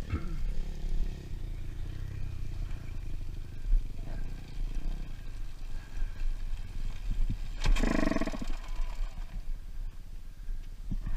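Dirt bike engine running over a steady low rumble, with a louder surge of engine noise about eight seconds in.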